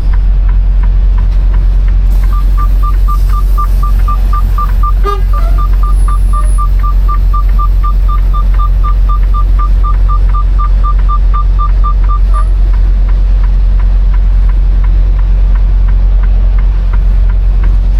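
Semi truck's diesel engine running with a steady low rumble. From about two seconds in to about twelve seconds, an electronic beeper sounds rapidly and evenly, about four or five beeps a second.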